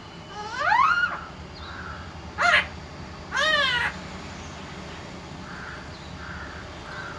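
Parrot calling: three loud, pitched calls in the first four seconds, the first rising, the second short, the third rising then falling, followed by faint soft sounds.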